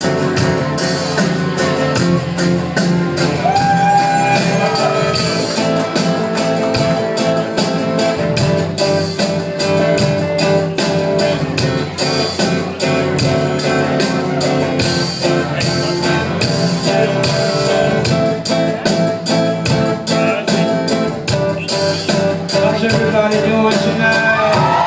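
Live band playing a song with a steady drum beat, recorded from the audience on a phone.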